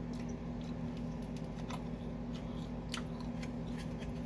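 Close-miked chewing of pizza, with scattered small mouth clicks and crunches, over a steady low hum.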